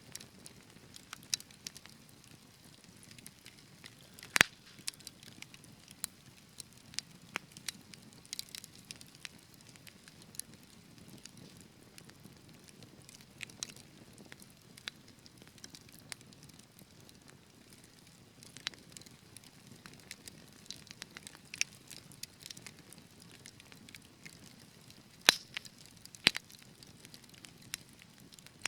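Wood fire crackling in a fireplace: irregular sharp pops and snaps over a soft low hiss of burning, with two louder pops, one about four seconds in and one near the end.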